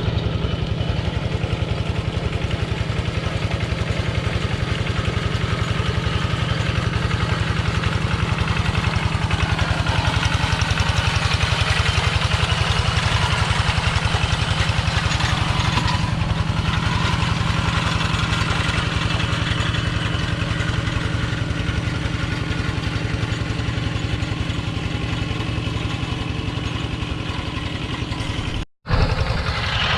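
Small engine of a two-wheel tractor running steadily, with a short cut-out just before the end.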